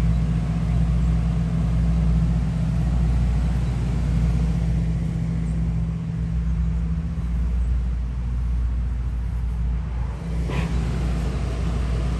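A motor running steadily with a low, even hum, like an idling vehicle or machine engine. A short knock about ten and a half seconds in.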